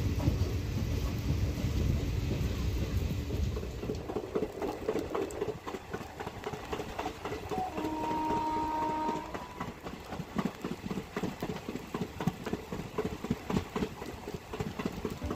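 ICF passenger coach of a moving train heard from its open doorway: wheels clicking over the rail joints with wind rushing past, a heavy low rumble for the first few seconds. A horn sounds briefly about eight seconds in.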